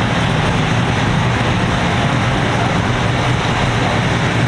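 Steady motor-vehicle noise: a constant low engine hum under an even roar of traffic.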